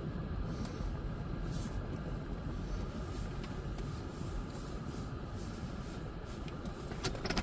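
Low, steady rumble of a car heard from inside its cabin, with a few short clicks near the end.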